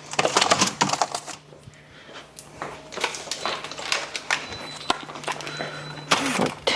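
Food containers and packets knocking and clattering as they are put into a fridge: a string of quick irregular clicks and knocks, busiest in the first second and again near the end.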